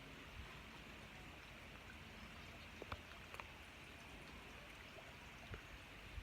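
Faint trickle of water from a small backyard stream, with a few soft ticks about halfway through.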